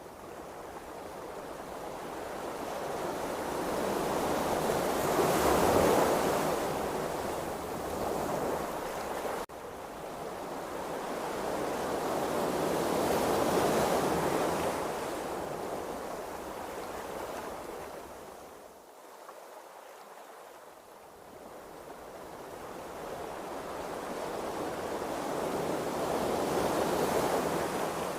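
Ocean waves washing, the sound swelling and fading in three slow surges.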